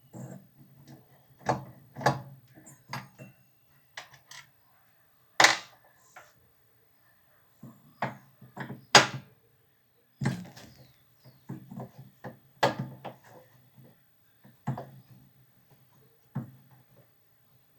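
Irregular knocks, clunks and clatters, as of hand tools and parts being handled during washing machine repair work, with two louder sharp knocks about five and a half and nine seconds in.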